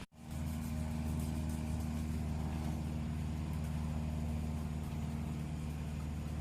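An engine running steadily at a constant speed, starting just after a short gap at the beginning.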